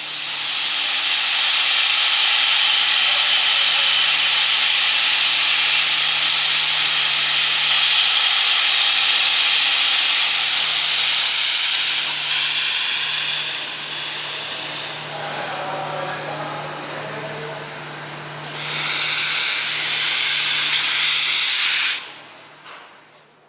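Steam locomotive R707 venting steam in a long, loud hiss. The hiss eases off about two-thirds of the way through, swells again, then cuts off abruptly near the end.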